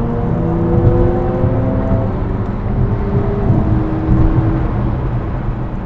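Car driving in traffic: a steady low road and engine rumble, with an engine note rising gently over the first couple of seconds as a vehicle accelerates.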